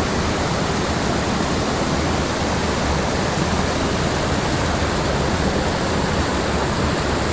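Steady, loud rushing of fast-flowing water in a small mountain stream.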